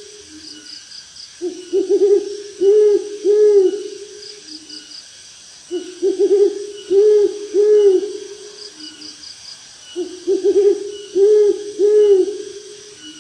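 An owl hooting in three matching bouts about four seconds apart. Each bout opens with a quick stuttered note and ends with two low, arched hoots.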